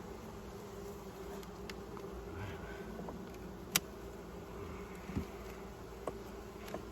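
Honey bees buzzing in a steady hum around an open hive. A sharp click comes a little past halfway, with a few softer knocks later.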